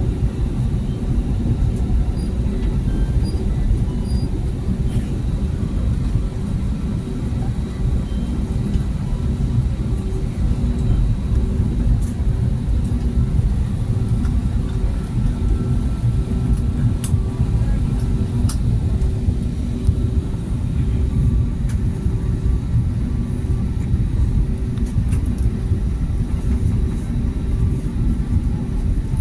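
Airbus A320neo cabin noise while taxiing: a steady low rumble from the engines at idle and the wheels rolling, with a steady hum over it.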